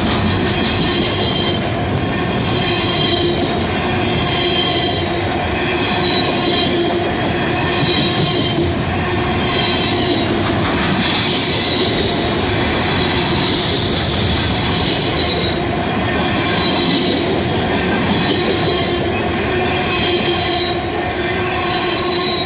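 Freight cars of a CSX transfer train rolling past close by: a steady rumble of steel wheels on rail, with steady high-pitched tones and a faint swell every couple of seconds as cars go by.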